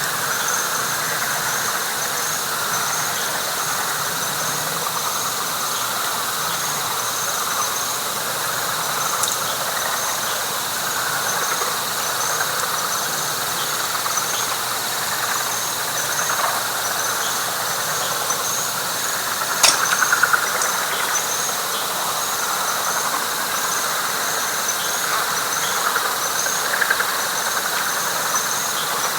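Dense night chorus of frogs in a wet pine flatwoods, with a steady high drone and a high chirp repeating evenly over it. A single sharp click comes about two-thirds of the way through.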